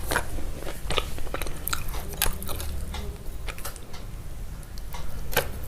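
Crunchy biting and chewing: irregular crisp crunches, about two a second, the sharpest one near the end.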